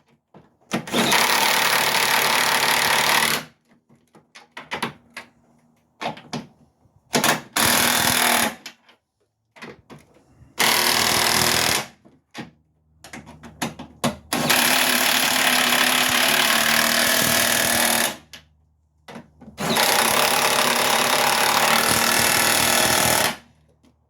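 Impact wrench running in the bolts of a new transmission mount on a 2003 Ford Focus. It comes in several runs of one to four seconds, with short blips and pauses between.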